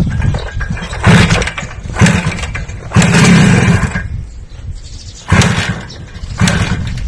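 A motor revving in repeated short bursts over a low running rumble: five sharp surges, the longest about a second long a little after the middle.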